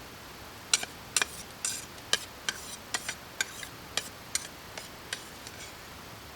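A run of about a dozen short, sharp clicks and taps at an uneven pace, stopping about a second before the end.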